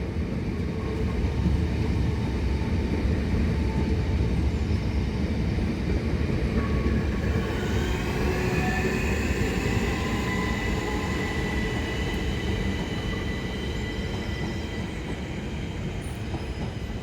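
Electric multiple-unit passenger trains passing close by: a steady rumble of wheels on the track. Thin high whining tones come in about halfway through, and the rumble eases a little toward the end.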